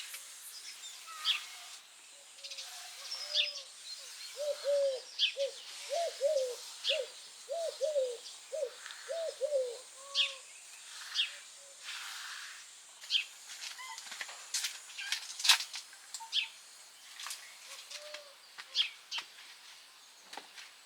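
Birds calling outdoors: a run of short, low, arching notes in quick succession, over many brief high chirps.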